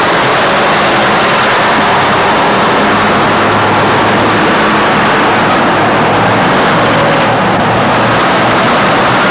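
Car engine running at idle under a loud, steady rushing noise, its low hum growing stronger about three seconds in.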